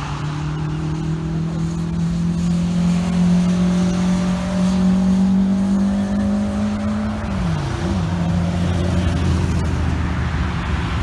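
A car's engine under acceleration, its note climbing slowly for about seven seconds, then dropping sharply, as at a gear change, before holding steady.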